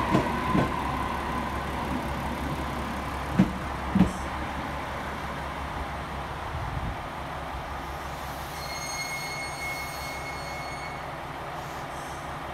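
JR Kyushu 817 series electric train slowing to a stop at a platform. Its running rumble fades, with a few loud clacks from the wheels in the first four seconds in pairs about half a second apart. A steady high whine sounds from about eight to eleven seconds as it stands.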